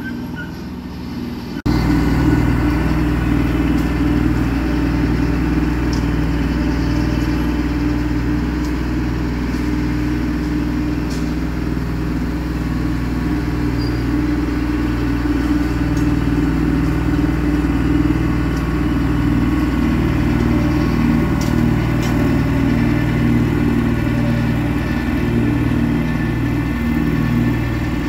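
Kubota 2501 tractor's diesel engine running steadily with a rhythmic low pulse. It cuts in suddenly about two seconds in.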